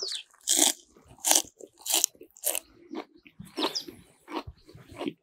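A person chewing a mouthful of rolled-up fresh herbs and onion dipped in sour cream sauce, crunching about three times every two seconds.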